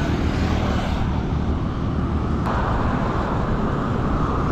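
Road vehicle running: a steady low engine and road rumble with tyre and road hiss, the hiss growing louder about two and a half seconds in.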